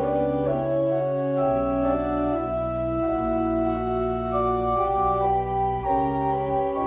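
Church pipe organ playing slow, sustained chords over deep held bass notes, the chords changing every second or two.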